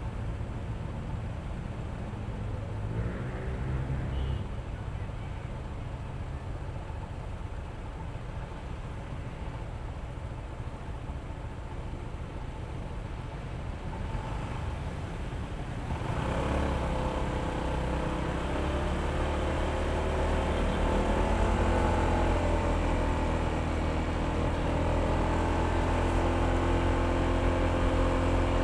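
Honda ADV160 scooter's single-cylinder engine running under way, with road and wind noise. About halfway through it gets suddenly louder and rises in pitch as the scooter speeds up, then holds a steady drone.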